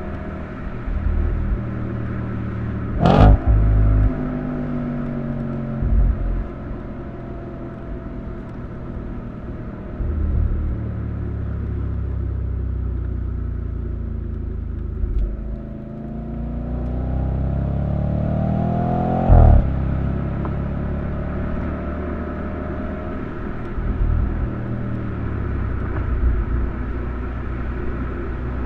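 A 2013 Audi RS5's 4.2-litre V8 running while the car is driven, heard from outside the car. Its pitch falls slowly over about ten seconds as it slows, then climbs as it accelerates. A sharp crack comes about three seconds in and another about nineteen seconds in, with occasional low thumps.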